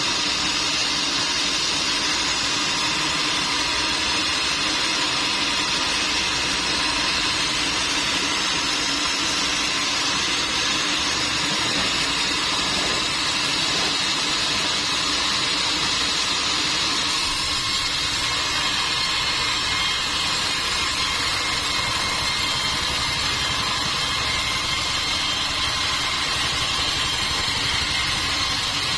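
Sawmill machinery running steadily, a constant mechanical hum and whine with no change in load.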